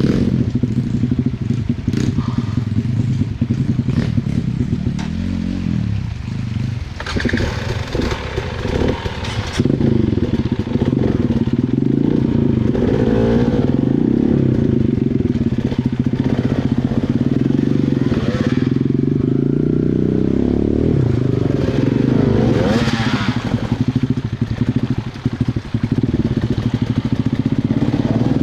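Small dirt bike engine running under load over rough ground, its pitch rising and falling as the throttle is worked. It is joined by two longer rushes of higher noise, about a quarter of the way in and again past three quarters.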